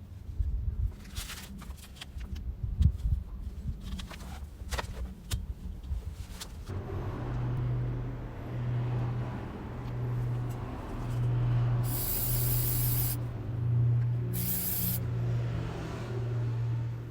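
Clicks and knocks of handling, then a motor starts running with a steady low hum about a third of the way in. Near the end, two short hissing sprays sound over it.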